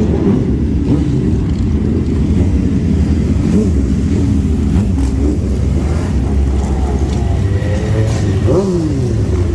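Motorcycle engine running, a steady low rumble that rises and falls a little in pitch.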